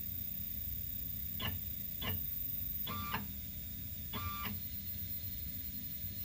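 Stepper motors of a Bob's CNC E4 router making four short jog moves. Each move starts and stops abruptly, and the last two hold a steady whine for a fraction of a second, over a steady low hum.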